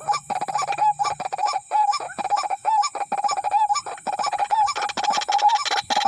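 White-breasted waterhen calling: a steady run of repeated notes, about three a second.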